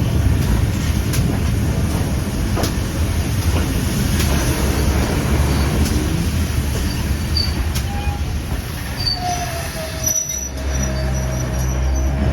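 Heritage railway train running on the rails: a steady low rumble with scattered sharp clicks from the wheels and track. A steady wheel or brake squeal comes in over the last few seconds.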